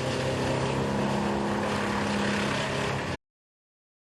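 An engine running steadily with an even hum; the sound cuts off abruptly about three seconds in.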